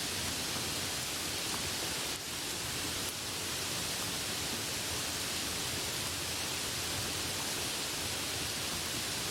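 Steady rain, an even hiss with no single drops or thunder standing out, dipping slightly for a moment about two seconds in.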